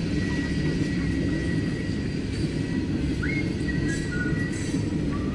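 Loaded coal hopper cars of a freight train rolling past with a steady low rumble of wheels on rail. A few faint, thin high-pitched squeals sound over it.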